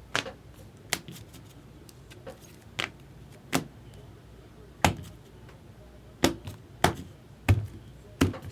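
Sharp taps and knocks on a tabletop at irregular intervals, roughly one a second, from trading cards being handled and set down; one of the later knocks is the loudest and has a dull thump.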